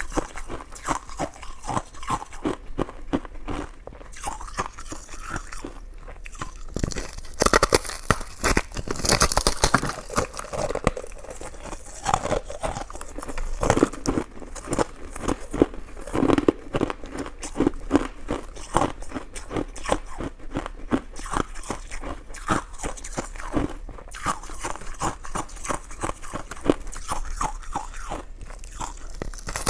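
A person chewing and biting coconut-coated sticky rice cake: steady, irregular wet clicks and smacks of chewing, louder for a few seconds about a quarter of the way in.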